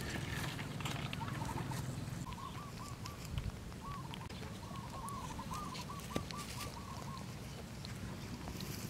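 A bird calling in runs of short, repeated notes, several runs over a few seconds, over a low steady background.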